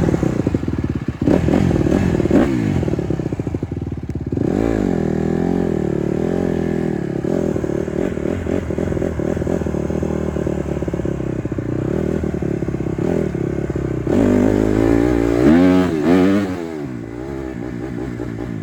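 Honda CRF150R dirt bike's single-cylinder four-stroke engine running and being revved over and over, its pitch rising and falling. The loudest revs come about a second in and again about three-quarters of the way through.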